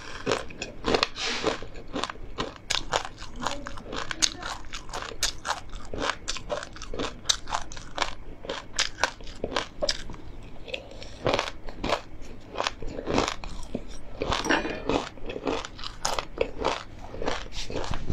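Close-miked chewing of crispy oil-fried perilla seeds, chili and pumpkin seeds: rapid, dense crunching throughout. It thins briefly around ten seconds in as a new mouthful goes in, then picks up again.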